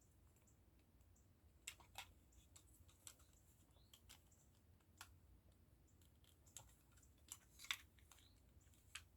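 Faint, scattered clicks and taps of small plastic model-kit parts being handled and pressed together, with near silence between them. The loudest clicks come near the end.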